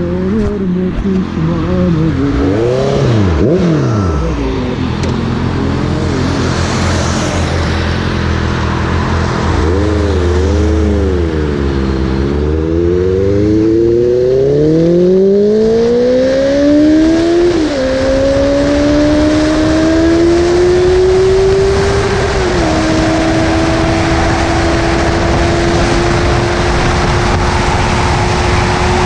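Honda sport motorcycle engine blipped once, then pulling away and accelerating hard through the gears. Its pitch climbs and drops at upshifts about halfway through and again a few seconds later, then settles into a steady, slowly rising note at speed under heavy wind rush.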